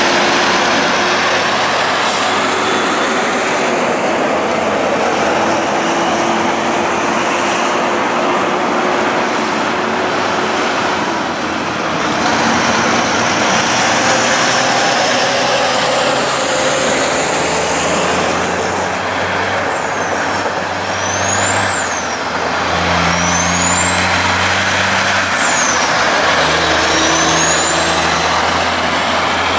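Heavy-haulage trucks pulling oversize loads past: diesel engines running and loud tyre and road noise throughout. In the last third, a high whine rises and falls several times.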